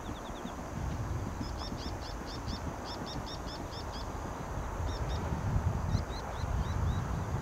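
A small bird calling in quick runs of short, high notes, about five a second, several runs in a row, over a low rumble of background noise.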